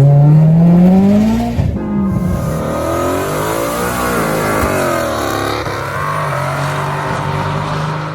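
Vehicle engine accelerating hard, its pitch climbing steadily for about a second and a half, then rising and falling through further revs.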